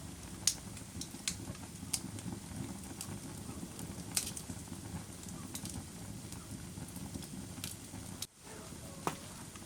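Wood fire burning in a fireplace: a steady low rush of flame with scattered sharp crackles and pops, about half a dozen loud ones. The sound drops out for a moment about eight seconds in.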